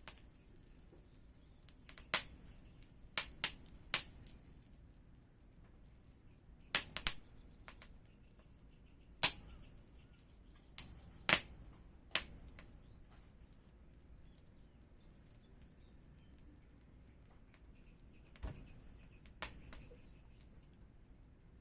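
Wood fire crackling: sharp, irregular pops over a faint low hiss, about a dozen in all. Most come in the first half, then a lull, then two more near the end.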